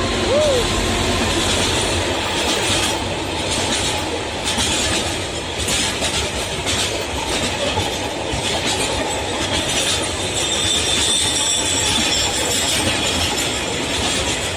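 Freight train rolling past at close range: a steady rumble of wagons with repeated clacks of wheels over rail joints. A thin, high wheel squeal comes in during the second half.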